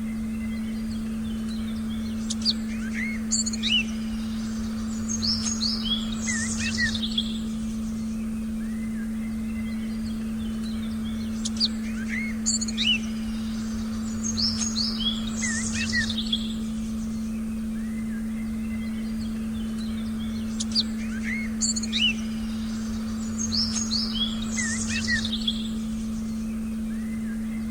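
Forest birdsong, bursts of quick chirps and whistles that repeat about every nine seconds, over a steady low synthesized drone tone.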